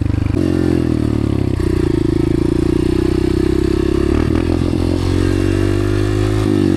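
Dirt bike engine running under way, its pitch climbing as the throttle opens shortly after the start and again near the end, with some brief clatter about four seconds in.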